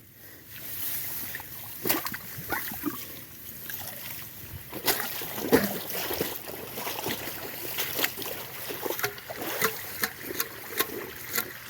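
Water sloshing and splashing as an eel trap is handled and lifted in floodwater, with irregular clicks and knocks and water dribbling.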